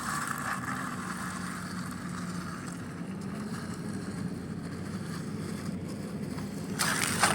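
A motor running steadily with a low hum, and a brief clattering noise near the end.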